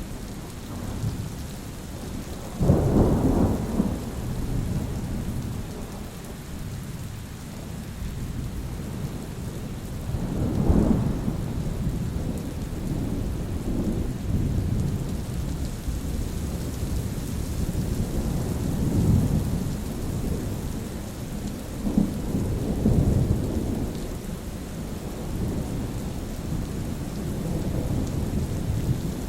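Thunderstorm: steady rain with rolling thunder. A loud rumble sets in suddenly about three seconds in, and further rumbles of thunder roll through around the middle and in the later part.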